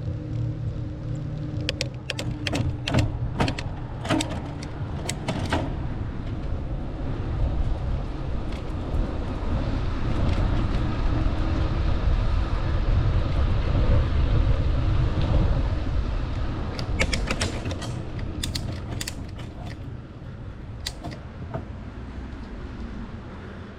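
Bicycle ride: wind rumble on the microphone swells and fades, with clusters of sharp clicks and creaks from the bike.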